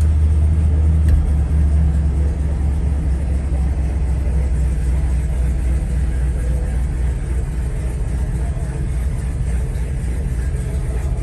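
1969 Chrysler Town & Country wagon's V8 running at fast idle just after a cold start: a steady low rumble that eases slightly in level over the first few seconds.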